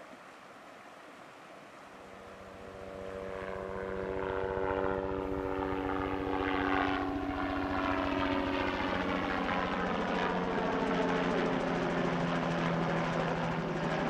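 Aircraft engine droning, fading in over the first few seconds and then holding steady.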